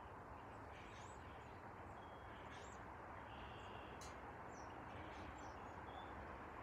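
Faint steady background hiss and rumble, with several short, high bird chirps scattered through it.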